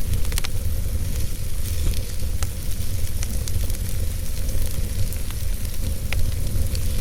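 Wood fire burning in a fireplace: a steady low rumble and hiss, with sharp crackles and pops from the burning wood, several close together near the start and single ones scattered after.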